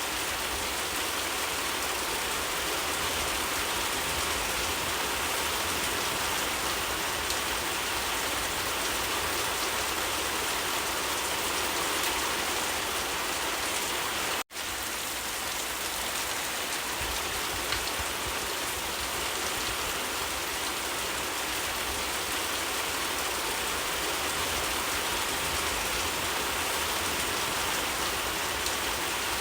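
Steady, heavy rain falling, an even dense hiss of drops. About halfway through, the sound cuts out for an instant and then resumes.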